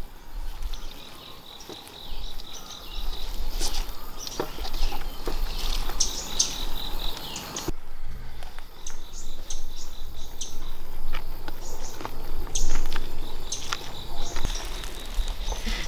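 Rainforest insects droning steadily on one high note, with bird chirps and scattered sharp clicks and crackles over it. The background cuts off abruptly about halfway and then resumes.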